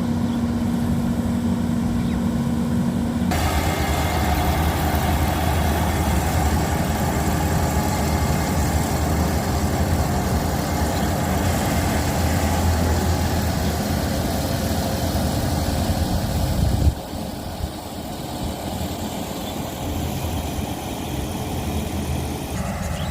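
An engine running steadily with a low rumble. Its sound changes abruptly about three seconds in, and the rumble drops away and gets quieter about seventeen seconds in.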